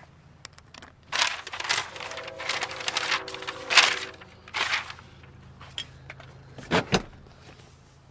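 Mustang door being worked: a few seconds of rattling and handling noise, then the door shut with a heavy thump about seven seconds in.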